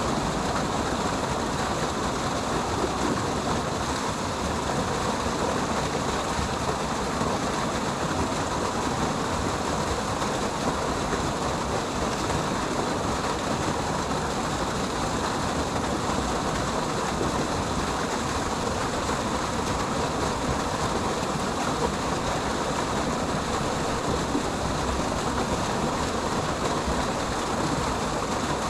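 Crevice waterfall pouring steadily: a continuous, even rush of falling water.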